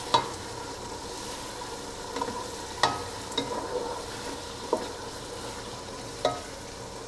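Tomato-and-onion masala sizzling steadily in a pot while a wooden spatula stirs it, with a few sharp knocks of the spatula against the pot.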